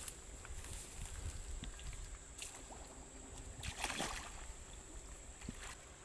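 Water sloshing, with a few short splashes.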